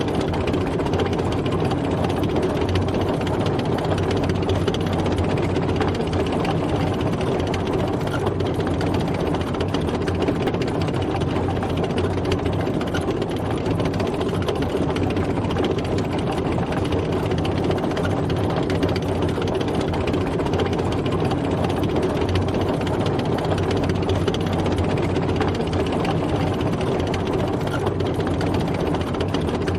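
Tank driving, its engine running steadily at a constant pace with no change in speed or pitch.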